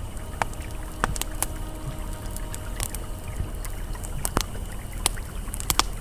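Campfire crackling, with irregular sharp pops and snaps, over the steady rush of a flowing river. Faint, soft ambient music tones sit underneath.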